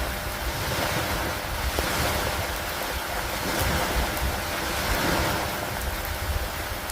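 Steady rain with wind and lake waves. The noise swells and eases every second or two over a low wind rumble, with a few faint drop ticks.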